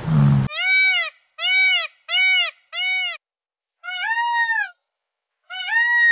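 Indian peafowl calling: four short, loud, rising-and-falling calls in quick succession, then two longer calls. The first half second holds the end of a low bison grunt.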